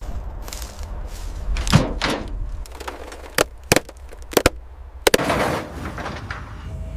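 A series of sharp knocks and slams, several in quick pairs, with rushing noise around them.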